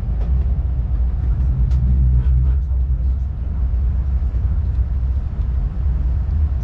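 Cabin running noise of a Renfe S-102 (Talgo 350) high-speed train on the move: a steady low rumble with a few faint clicks.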